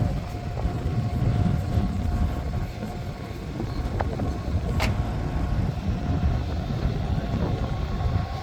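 A car's steady low rumble, with two short clicks a little past the middle.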